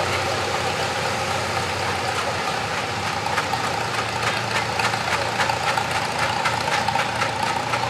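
Tractor engine running steadily. About three seconds in, a regular knocking beat of roughly three to four strokes a second comes through.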